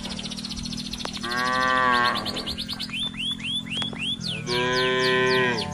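Cattle mooing twice, one long call about a second in and another near the end, with a quick run of high chirps between them.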